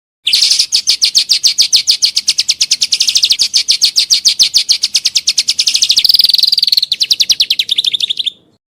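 Songbird giving one long, rapid run of evenly repeated sharp, high notes, a fast rattling burst of song that stops abruptly about a second before the end.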